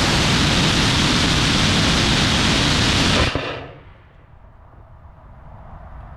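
75mm three-grain L832 solid rocket motor (ammonium perchlorate, strontium nitrate and magnesium propellant) burning on a static test: a loud, steady rushing hiss that dies away about three and a half seconds in at burnout, leaving a faint low rumble.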